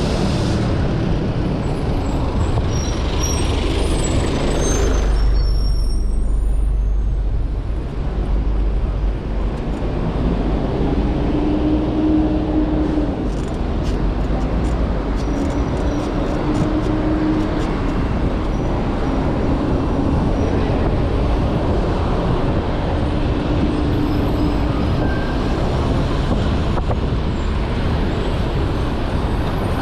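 City street traffic heard from a moving bicycle: a steady rush of motor traffic and road noise with low wind rumble on the microphone, heaviest a few seconds in, and a short low hum from a passing vehicle three times midway.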